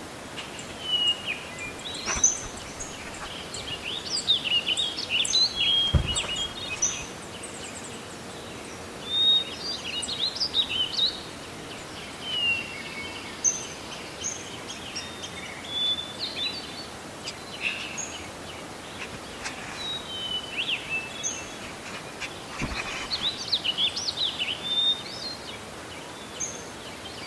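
Several small songbirds chirping and singing in short, quick calls and trills, overlapping one another, over a steady faint hiss. A couple of soft low thumps stand out, about six seconds in and again a little past twenty seconds.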